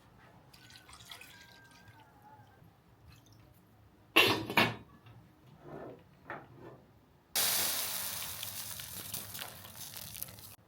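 A couple of loud knocks, then water running or pouring for about three seconds; it starts suddenly and stops near the end.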